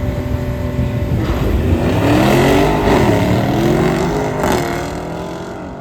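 Two drag-racing vehicles accelerating hard down the strip, their engines rising in pitch and dropping back again and again as they change up through the gears. The sound builds to its loudest in the middle and fades near the end as they pull away.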